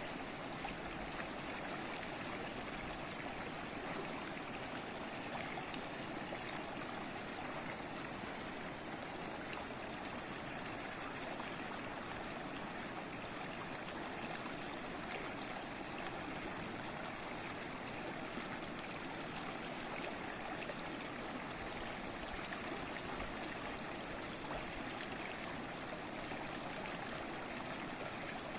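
A small stream flowing and babbling steadily, an even trickling rush with no breaks.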